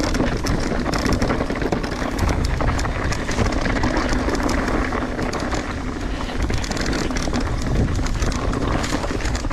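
Mountain bike riding down a wet dirt trail: wind buffeting the camera's microphone over a constant rumble, with quick rattles and knocks as the bike goes over bumps.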